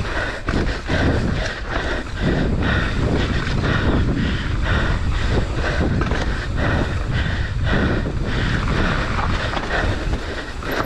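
Mountain bike descending a rough trail: loud wind buffeting the microphone, with tyres running over dirt and rock and the bike rattling over bumps, several knocks a second.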